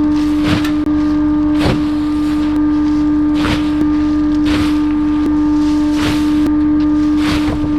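Bulky-item garbage truck's compactor crushing a load: a steady high-pitched hum, with irregular cracks and creaks of material giving way about every second.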